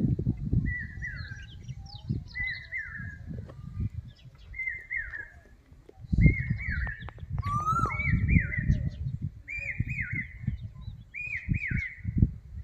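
A bird calling over and over: a short falling call repeated about every second and a half, growing louder in the second half, with a second, lower falling call joining in twice. An uneven low rumble runs beneath the calls.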